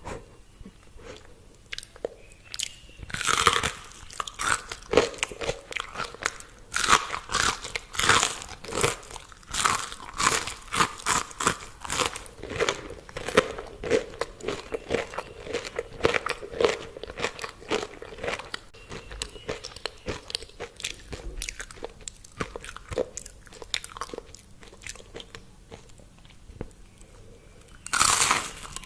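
Close-up eating: crisp fried food being bitten and chewed with steady crunching, with loud bites about three seconds in and again near the end.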